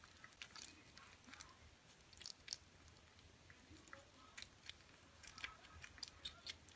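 Kittens eating from a food bowl: faint, scattered chewing and smacking clicks.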